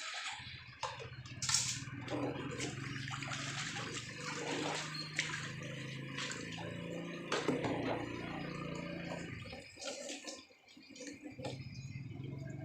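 Tap water running into a sink while dishes are washed by hand, with clinks and knocks of dishes. The flow drops away briefly about ten seconds in, then resumes.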